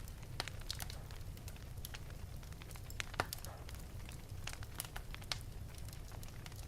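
Wood fire burning in an open fireplace, crackling with irregular sharp pops over a low steady rumble of the flames; the loudest pop comes about three seconds in.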